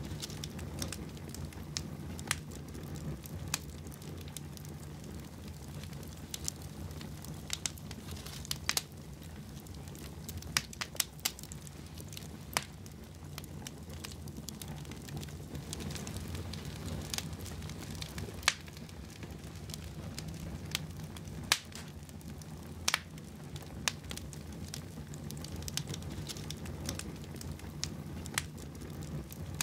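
Wood fire burning in a fireplace, crackling with irregular sharp pops over a steady low rush.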